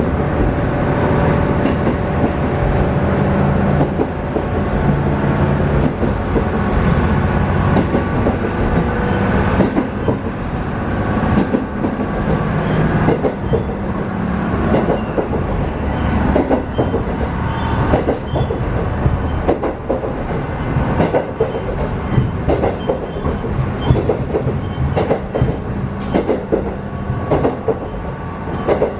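A diesel railcar running, heard from inside the passenger cabin: a steady low engine drone with the wheels clicking over rail joints, the clicks growing more frequent in the second half.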